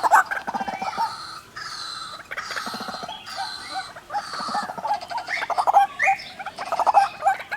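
White-breasted waterhens, a male and a female, calling together. Their harsh, rapid pulsed calls run on and overlap throughout.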